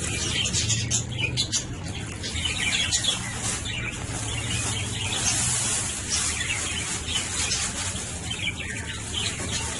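Budgerigars chirping and chattering continuously, many quick high chirps overlapping.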